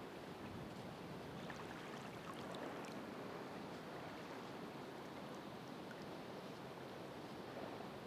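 Ocean surf washing steadily, with faint scattered ticks of water over the even wash.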